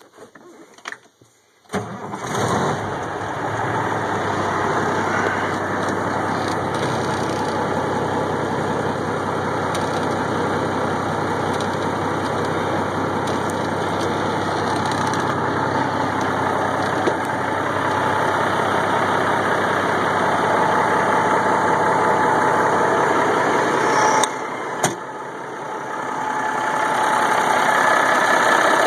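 Caterpillar 3406B inline-six diesel in a Kenworth W900 starting up about two seconds in, after a few faint clicks, then running steadily. Its level dips briefly about 24 seconds in and builds again toward the end.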